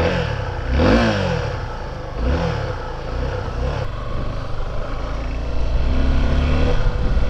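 Motorcycle engine revved in three short throttle blips, each rising and falling in pitch, then running steadily.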